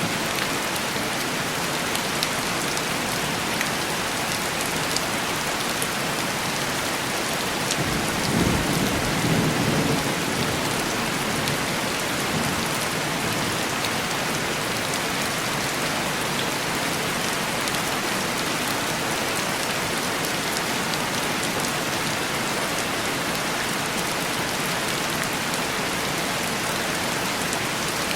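Steady heavy rain pattering on window glass, with a low rumble of thunder about eight seconds in.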